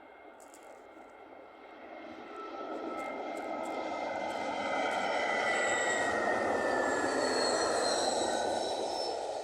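Jet airliner passing by: its engine noise swells over a few seconds, holds, then starts to fade. A high whine slides down in pitch as it goes past.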